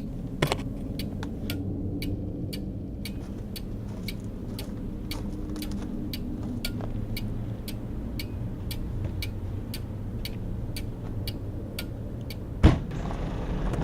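Clock ticking about twice a second over a low steady hum, with one sudden loud knock near the end.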